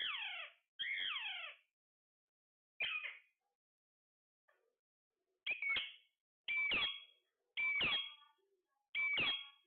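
A parrot calling in a series of about seven short, loud calls. The first two fall in pitch, and the later ones open with a brief steady note.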